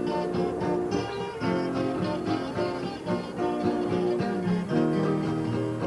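Instrumental break of a Brazilian sertanejo song: plucked acoustic guitars picking a quick, busy melody over a strummed backing, with no singing.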